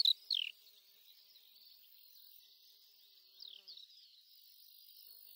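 A steady, high-pitched outdoor chorus of chirping, with a louder falling chirp at the very start and two more about three and a half seconds in.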